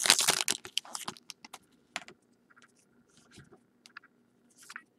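Trading cards and their foil pack wrapper being handled: a quick run of crinkles and light clicks that thins out after the first second or so into scattered faint ticks.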